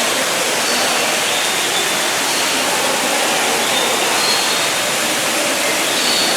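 A steady, even rushing noise, with a few faint short high chirps now and then.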